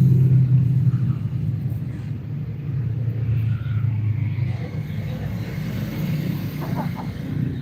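A steady low rumble, like an engine running, that eases off a little after the first second or two.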